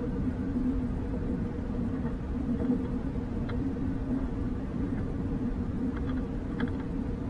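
Passenger train running along the track, heard on board as a steady low rumble with a faint steady hum and a few light clicks late on.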